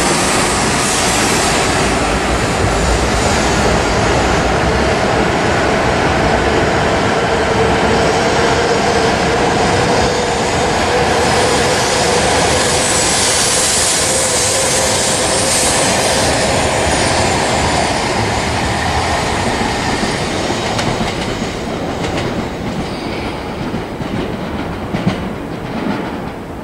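Coupled E6 and E5 series Shinkansen train running past at close range, pulling out of the station: a loud rush of wheels and running gear with a faint whine rising in pitch as it gains speed. It fades as the last cars clear, with a few sharp clicks near the end.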